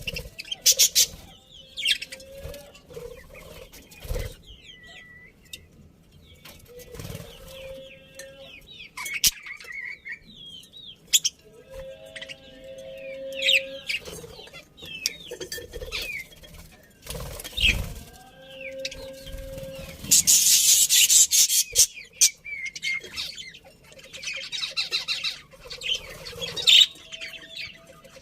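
A budgerigar colony chirping and chattering in many short, high calls, with knocks and short wing flutters. A longer burst of wing flapping comes about twenty seconds in.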